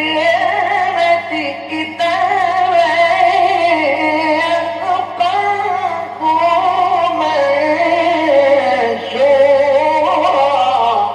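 A male reciter chanting the Quran in the melodic mujawwad style: long, ornamented phrases with a wavering pitch and brief breaks between them, over a steady low hum.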